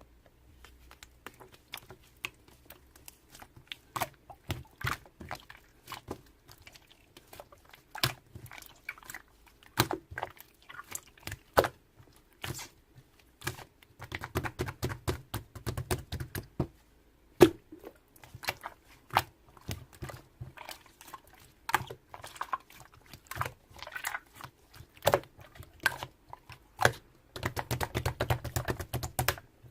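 Clear slime being squished and pressed by hand, making irregular sticky clicks and pops, with denser runs of crackling pops about halfway through and near the end.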